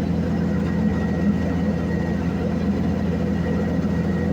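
Heavy engine of asphalt paving machinery running steadily with a low, even hum.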